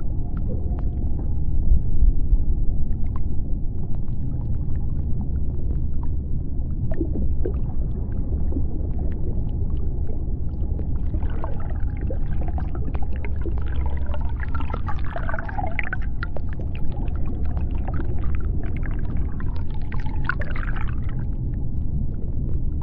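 Underwater ambience: a steady deep rumble with scattered clicks, joined about halfway through by wavering, gliding higher calls that last about ten seconds.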